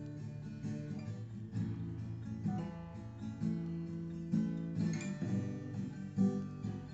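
Acoustic guitar strumming basic chords, a slow steady pattern with repeated strokes.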